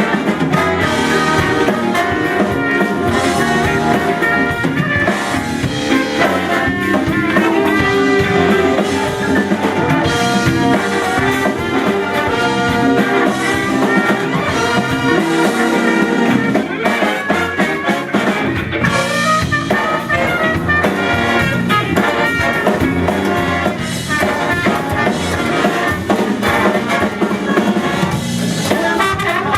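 A large soul band's horn section of trumpets and trombones plays over a drum kit in an instrumental soul number that runs without a break.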